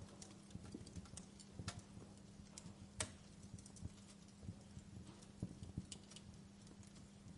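Wood fire crackling in a fireplace: faint, irregular pops and snaps, the sharpest about three seconds in, over a steady low hum.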